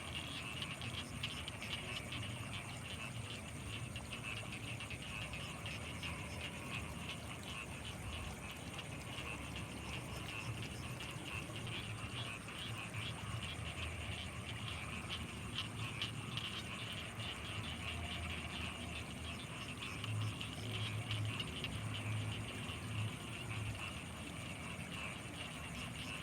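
Night chorus of frogs and insects from rice fields: a steady, rapidly pulsing chirr with a thin constant high tone above it, and low repeated pulses that grow stronger about twenty seconds in.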